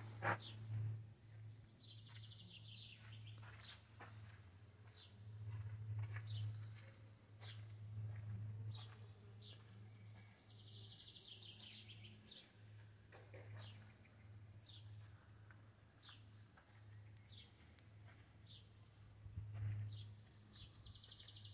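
Small birds singing faintly: scattered short high chirps, and three times a quick high trill lasting about a second. A steady low hum runs underneath.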